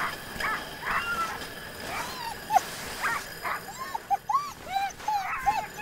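Sled dogs yipping and whining in a rapid string of short rising-and-falling cries, with a sharp click about two and a half seconds in.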